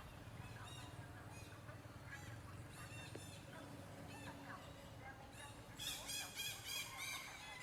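Red-breasted parakeets calling with short, harsh squawks, scattered at first and then a dense, louder run of calls from about six seconds in, over a low steady hum.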